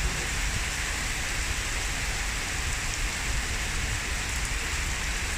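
Heavy downpour: steady, dense rain falling and splashing on surfaces.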